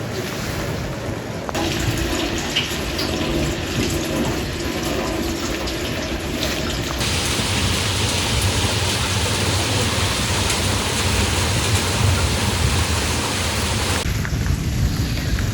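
Steady rain falling, with scattered drips and a low rumble. The sound shifts abruptly three times, a bit over a second in, about halfway and near the end.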